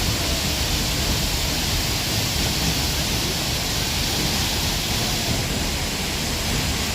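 Seljalandsfoss waterfall crashing down close by, a loud steady rush of falling water.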